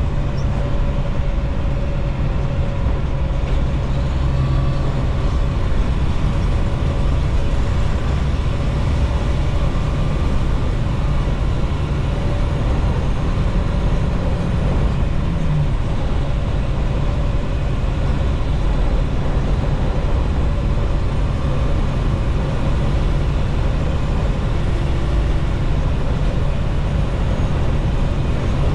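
Semi-truck driving at road speed, heard inside the cab: a steady low drone of engine and tyre noise with a faint steady whine.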